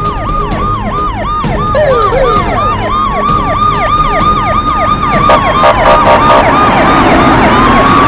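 Several police sirens sounding at once: a fast yelp of about three or four falling sweeps a second overlapping slower rising and falling wails, over a low rumble, growing louder toward the end.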